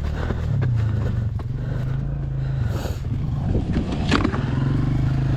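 Dirt bike engine running at a steady low pitch, its revs rising and falling about three and a half seconds in, with a sharp knock about four seconds in.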